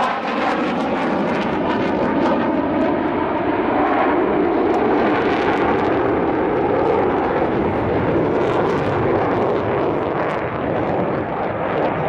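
Aircraft in flight, a loud, steady rush of engine noise whose tone wavers in the first few seconds as it passes.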